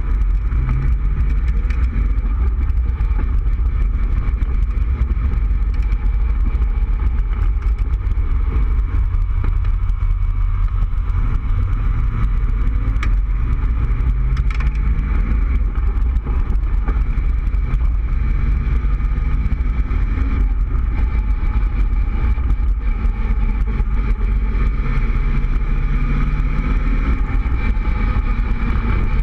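Cobra roadster's engine running as the car drives along, heard from the open cockpit over a steady low rumble of wind and road noise. The engine note climbs in pitch three times as the car accelerates.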